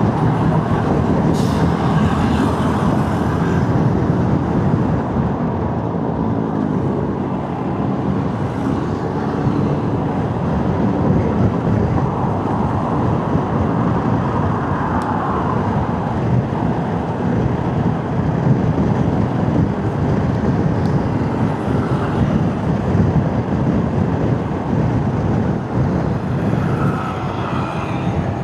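Motorcycle running steadily while riding in road traffic, with engine and road noise.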